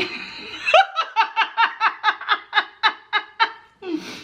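A woman laughing: a long run of short rapid "ha" pulses, about five a second, with a breath near the end.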